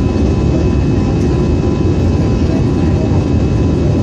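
Steady cabin noise of an Airbus airliner in flight, heard from inside the cabin: a dense, even rumble of jet engines and airflow, with faint steady whining tones above it.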